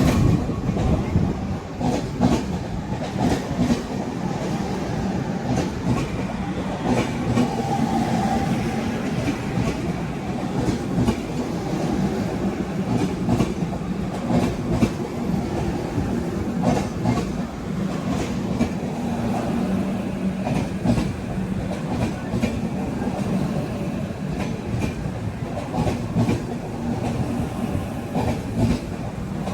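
An Indian Railways train running through at speed, a steady rumble with the wheels clicking over rail joints throughout.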